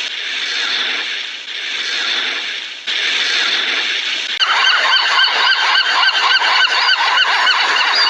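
A flock of birds calling over one another. About halfway through, a denser chorus of many short, rising-and-falling calls takes over.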